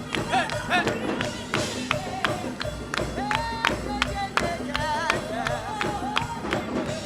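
Live gospel praise music: an upbeat instrumental passage with sharp percussion strikes several times a second over held low notes and wavering melody lines.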